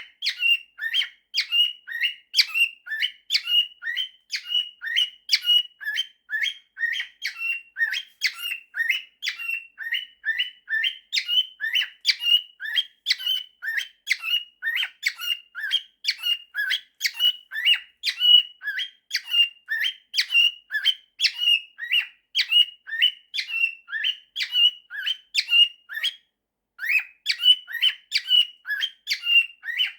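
Male cockatiel whistling his song: a long, quick string of short whistled notes, about two to three a second, with a brief pause near the end.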